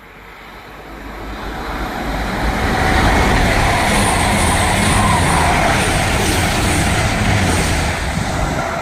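Two coupled Class 222 Meridian diesel-electric multiple units passing through. The rush of the train and its underfloor diesel engines builds over the first three seconds, then holds loud and steady before easing slightly near the end.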